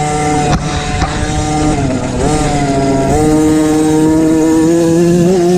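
MXF 50 Pro Racing mini motocross bike engine, heard onboard, revving with the throttle. Its pitch drops and picks up again twice, then holds high and steady, rising slightly, for the last couple of seconds.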